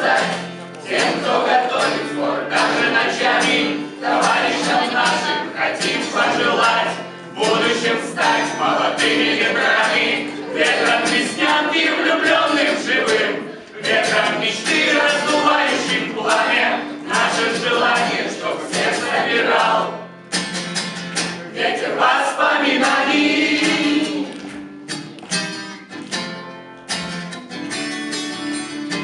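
A group of voices singing a song together, with instrumental backing.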